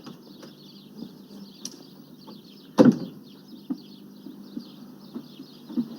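A single sharp knock about three seconds in, with a few lighter ticks, over faint chirping birds.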